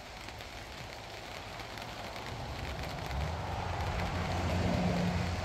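Rain beginning to fall, a light steady patter and hiss that grows louder, with a low rumble building over the second half.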